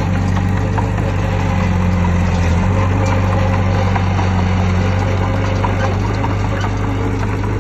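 Heavy diesel earthmoving machinery running steadily with a low engine drone, with light clicks and clanks scattered through it.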